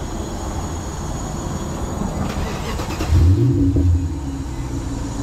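Infiniti FX45's 4.5-litre V8 started warm: about three seconds in it catches suddenly with a short rev and settles into a steady idle.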